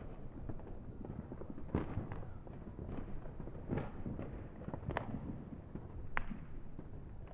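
Fireworks going off at a distance: a scatter of small irregular pops and crackles over a low rumble, with a few sharper single cracks spaced a second or so apart.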